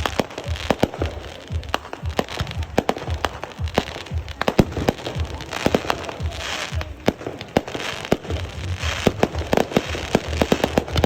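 Fireworks going off in a rapid, irregular string of sharp bangs and crackles, with two stretches of hissing crackle partway through.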